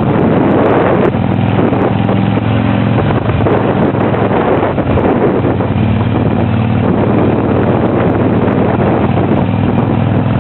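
Harley-Davidson V-twin motorcycle engine running while riding, its note shifting a couple of times, with heavy wind rush over the microphone.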